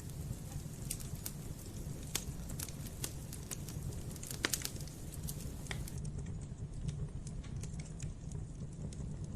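Wood campfire crackling: irregular sharp pops and snaps over a steady low rumble of the burning fire, with one louder pop about four and a half seconds in.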